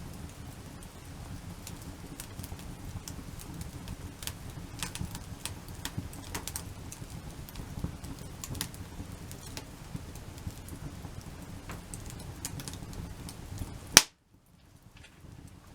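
Wood campfire burning, with scattered crackles and pops over a low steady rumble. A single loud crack comes about fourteen seconds in, after which the sound drops almost to nothing.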